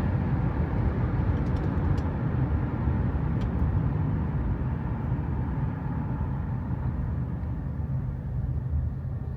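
Road vehicle noise: a steady low rumble of traffic or a car in motion, easing off near the end.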